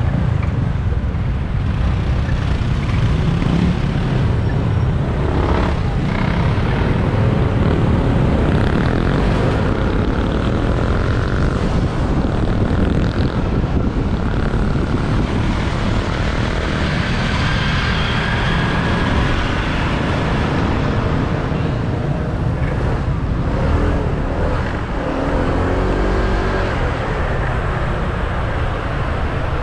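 Motorbike running through city traffic, a steady rumble of engine, tyres and surrounding vehicles, with the engine's pitch rising and falling in places.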